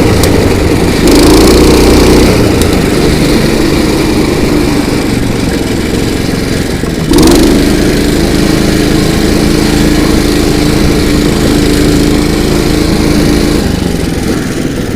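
Small petrol engine of a motorized snow tow unit (motodog) running under load, revving up about a second in and again sharply about seven seconds in, then easing off near the end.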